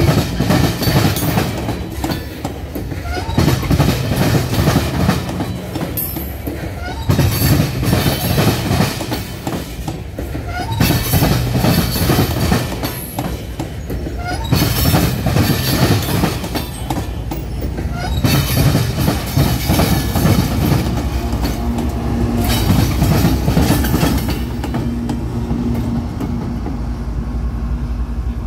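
Loaded coal hopper cars rolling slowly past, their wheels clacking over rail joints with a heavy burst of clatter every three to four seconds. Near the end a steady diesel locomotive engine hum comes in under the wheel noise.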